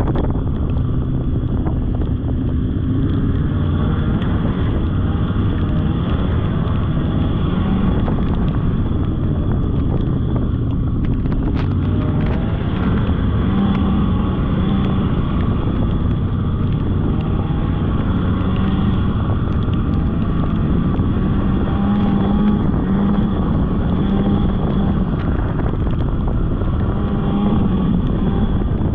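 Polaris snowmobile engine running steadily while riding a trail, its pitch shifting a little with the throttle, with wind on the microphone.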